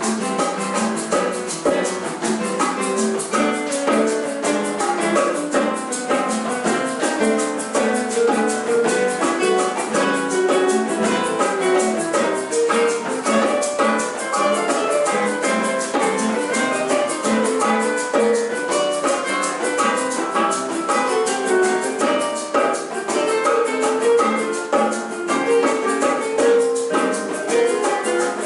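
Classical guitar ensemble playing a busy, flowing piece of quickly plucked notes, with light shaker-like percussion ticking along.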